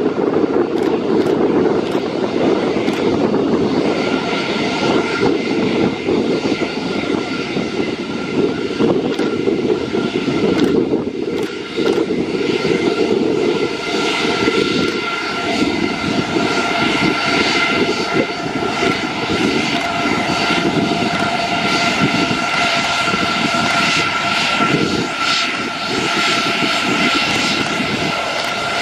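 Aircraft engine running loudly and steadily, with a steady whine coming in about four seconds in.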